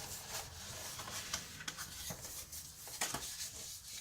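Paper being folded and creased by hand along score lines: soft rubbing with a few light taps and handling noises.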